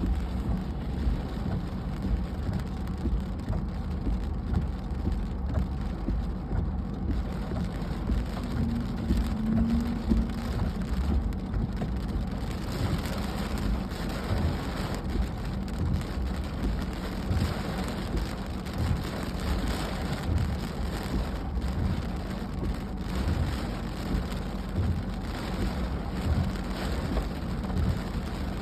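Steady rain falling, a continuous even noise with no letup.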